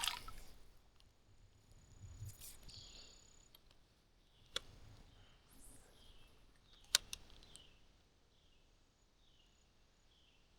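Faint outdoor ambience with soft scattered handling sounds and two sharp clicks, one a little under halfway through and another a couple of seconds later, then near quiet.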